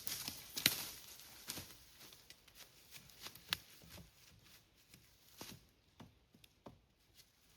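Irregular rustles and small sharp cracks of forest-floor litter being disturbed, a few a second and uneven, the sharpest about a second in and again halfway through.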